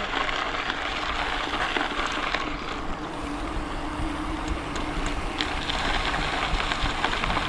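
Steady rushing noise of a bicycle ride: wind on the microphone and tyres rolling on the trail, with a few faint clicks.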